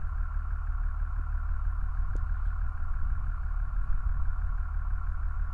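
A vehicle engine idling steadily: a low, even rumble with a faint steady whine above it.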